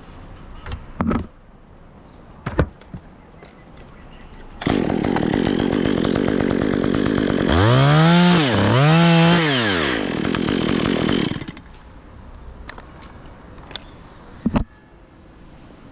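Two-stroke chainsaw runs for about seven seconds, its engine speed swinging up and down twice in the middle, then stops. A few sharp knocks come before and after it.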